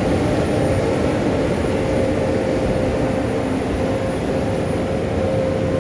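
Diesel engine of heavy earthmoving machinery running steadily under load, a low rumble with a steady whine held above it.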